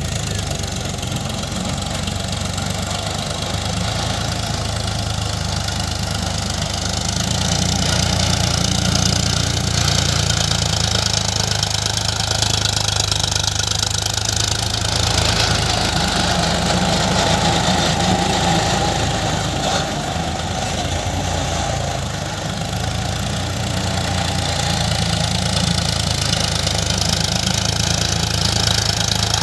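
Farm tractor engine running steadily with a low hum, getting a little louder after several seconds.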